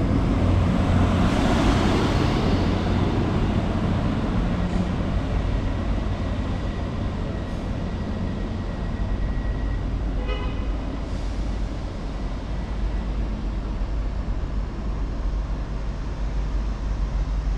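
A train running in a station, a steady low rumble. It is loudest in the first few seconds and slowly eases off. A faint high thin tone runs through the middle, and a brief pitched sound comes about ten seconds in.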